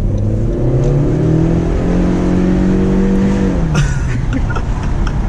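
2016 Honda Civic's 1.5-litre turbocharged four-cylinder pulling hard under acceleration: the engine note climbs in pitch over the first two seconds and holds, then falls away a little before four seconds in, followed by a brief clatter of short clicks.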